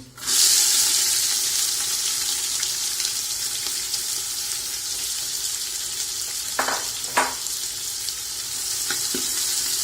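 Diced onions hitting hot oil with whole spices in a pan: a loud sizzle starts suddenly, then settles into steady frying. Two short knocks come about two-thirds of the way through.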